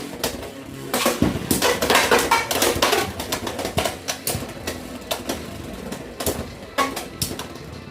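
Beyblade X spinning tops clashing in a plastic stadium: rapid, irregular clacks and knocks, heaviest between about one and three seconds in, then lighter, scattered hits.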